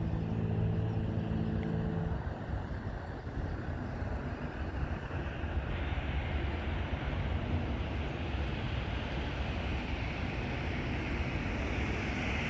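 Steady roar of rushing water, with a deep rumble underneath and a brighter hiss that grows about six seconds in.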